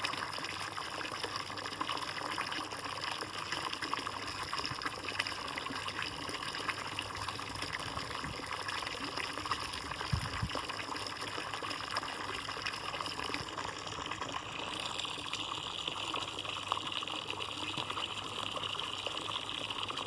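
Water running and splashing steadily in a bird bath. Its sound turns brighter about three quarters of the way through, and there is one short low thump near the middle.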